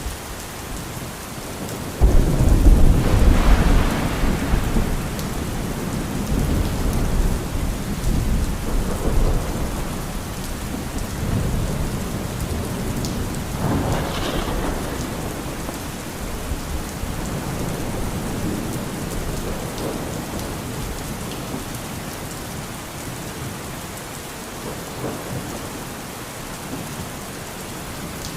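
Steady rain falling through a thunderstorm. A loud thunderclap breaks about two seconds in and rumbles on for a few seconds, and a second, weaker roll of thunder comes around the middle.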